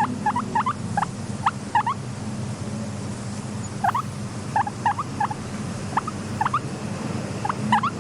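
Guinea pig squeaking: short, sharp rising squeaks in quick groups of two or three, with a lull of about two seconds in the middle, over a steady low hum.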